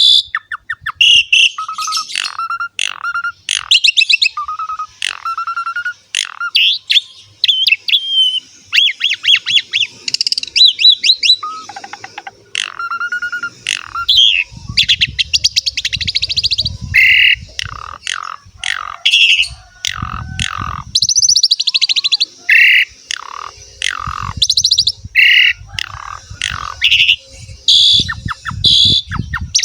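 Javan pied starling (jalak suren) singing a long, loud, varied song: clear whistles, rapid buzzy rattles and chattering notes strung together, full of mimicked fills ('isian'). Low rumbling comes and goes under the song in the second half.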